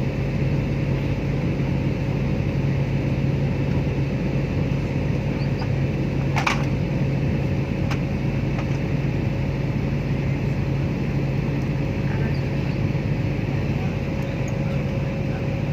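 Steady engine and air noise inside a jet airliner's cabin in flight, with a strong low hum. One short sharp click about midway.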